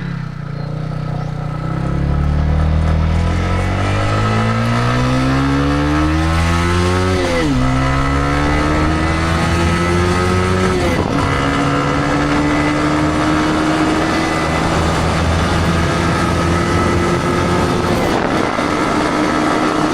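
Motorcycle engine accelerating through the gears. Its note climbs, drops sharply at a gear change about seven and a half seconds in and again about eleven seconds in, then rises slowly and settles at a steady cruising pitch, with a steady rush of wind and road noise.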